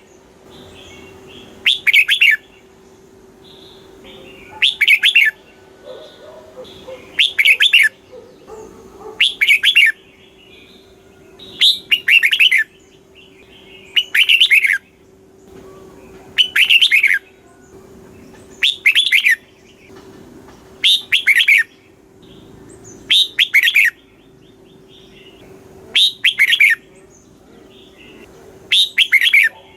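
Red-whiskered bulbul singing: about a dozen short, bright, warbling phrases, one every two to three seconds.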